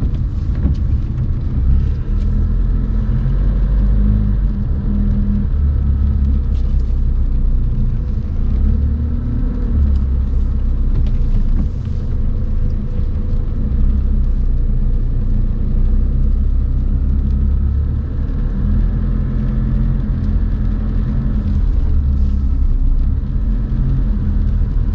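Car driving along, a steady low road and engine rumble heard from inside the cabin.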